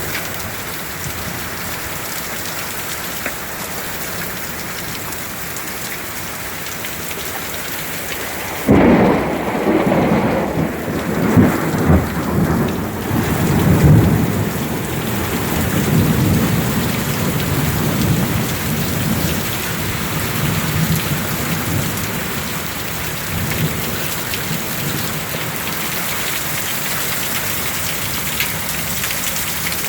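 Steady downpour of heavy rain with hail. About nine seconds in, thunder breaks suddenly and rumbles loudly for several seconds before fading back under the rain.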